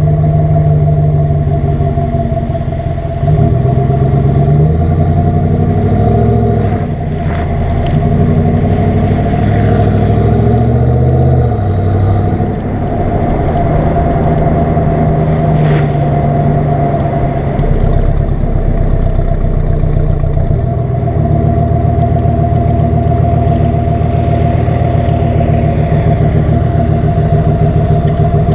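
Ram pickup truck's exhaust note as the engine runs, with engine speed rising and falling several times.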